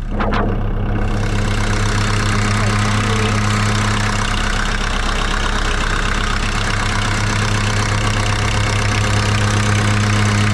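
Volkswagen Mk1 Rabbit's 1.6-litre diesel engine idling steadily at an even pitch, with a short click just after the start.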